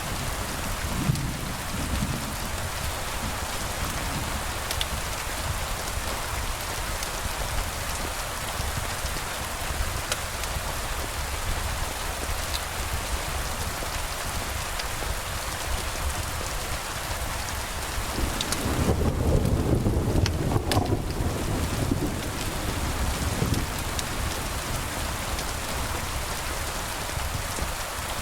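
Steady rain falling, with a low roll of thunder about two-thirds of the way through.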